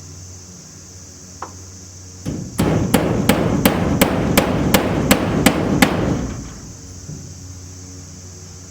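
Hammer driving a nail into wood: about ten quick, evenly spaced blows, roughly three a second, over a dense ringing clatter, starting a couple of seconds in and stopping after about three and a half seconds.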